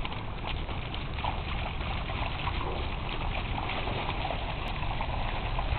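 Steady rain falling, a continuous even hiss with low rumble underneath.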